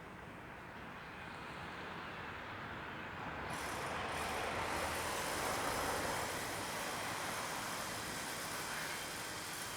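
A train passing over the level crossing: a steady rushing noise that swells sharply about three and a half seconds in, peaks a couple of seconds later and then holds.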